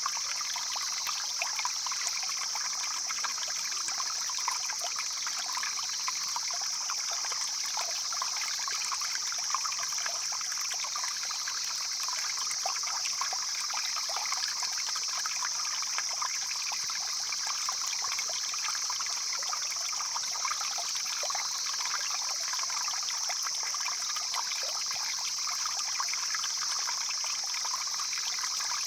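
Stream flowing steadily, a continuous babbling and trickling of water, with a steady high-pitched hiss above it.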